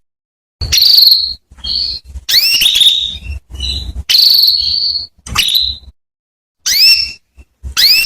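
Female canary calling: a repeated series of short, upward-sweeping whistled call notes with silent gaps between them, and a longer steady whistle about a second in and again about four seconds in. This is the hen's call to a male canary.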